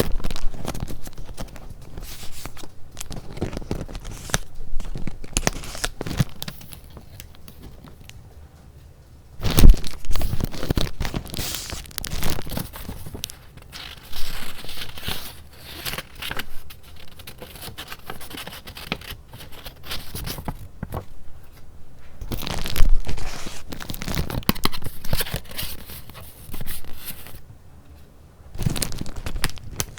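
Paper being handled close to the microphone: irregular rustling, crinkling and tearing-like crackles. The paper goes quiet for a few seconds, then starts again with a sudden loud rustle about nine and a half seconds in.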